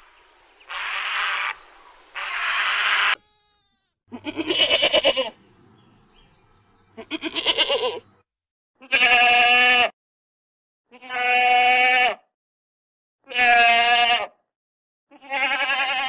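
Two harsh, rasping squawks from a great egret in the first three seconds, then a Boer goat bleating six times, roughly every two seconds: the first two bleats quaver, the later ones are long and clear.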